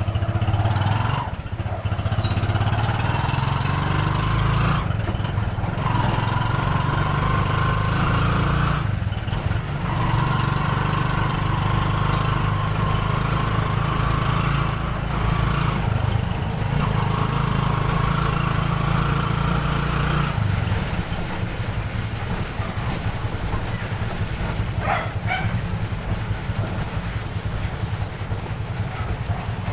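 Motorela's motorcycle engine running under load as it pulls the passenger cab along the street, heard from inside the cab. The engine note dips briefly every few seconds, then settles lower and quieter for the last third.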